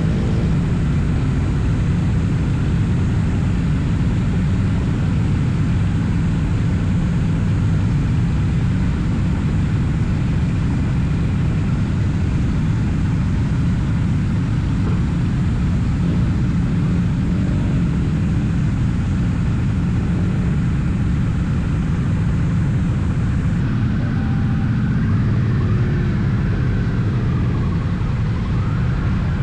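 Triumph Bonneville T100 parallel-twin engine running steadily at cruising speed, mixed with heavy wind rush. Near the end, some faint tones rise and fall above it.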